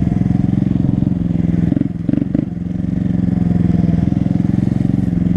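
Honda Grom's small single-cylinder engine running steadily at low speed, briefly easing off about two seconds in before settling back.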